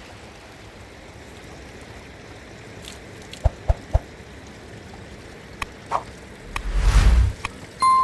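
Mountain river running steadily, with several short sharp knocks around the middle and a louder rushing noise with a low rumble, under a second long, near the end.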